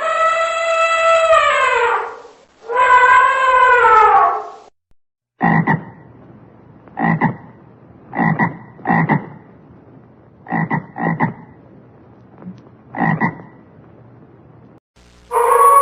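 Two long, drawn-out animal calls that fall in pitch at the end, followed by a frog croaking: about eight short croaks, spaced irregularly around a second apart.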